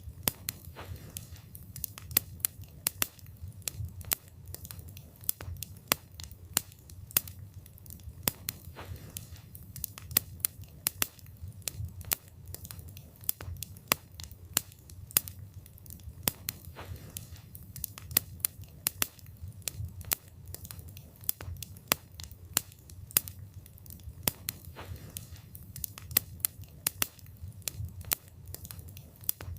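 Wood fire burning: frequent sharp crackles and pops of the burning wood, several a second, over a low steady rumble of the flames.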